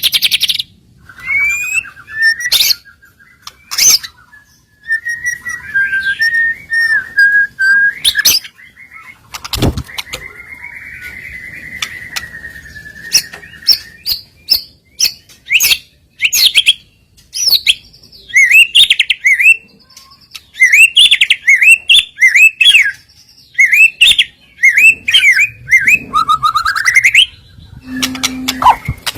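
White-rumped shama (murai batu) singing a long, varied song of the kind meant to provoke rival males into singing, packed with mimicked phrases. It runs through whistled notes, a wavering trill, a long buzzy trill, fast repeated chip phrases and sharp clicks.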